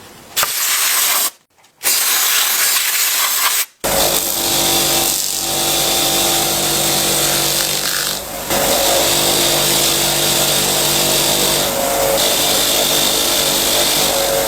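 Electric power tool motor running, starting and stopping briefly at first, then running steadily from about four seconds in with a loud hiss over a steady hum.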